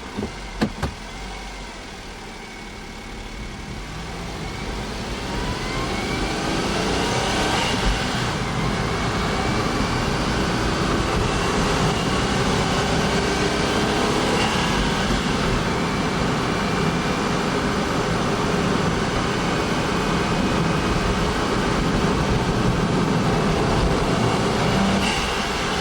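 Honda S660's small turbocharged three-cylinder engine getting louder, its pitch rising over the first several seconds, then running steadily at a constant speed. A few sharp clicks come just before it picks up.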